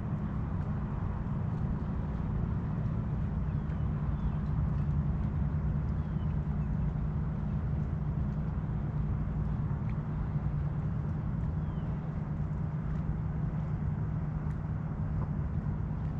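Steady low drone of a boat's motor running, with one of its tones dropping out about ten seconds in. A few faint bird chirps sound above it.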